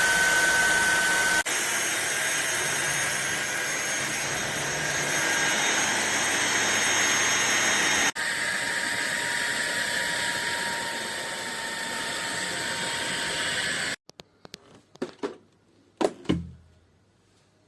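Fieety cordless stick vacuum cleaner running with a steady rushing whine, its sound shifting abruptly twice. It cuts off suddenly about 14 seconds in, followed by a few light knocks and two louder thumps.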